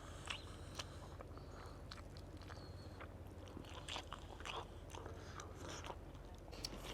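Close-miked eating: chewing and biting food, with scattered small crunches and mouth clicks.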